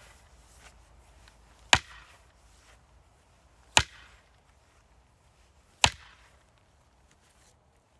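Axe splitting firewood: three sharp strikes about two seconds apart, each with a short ring after it.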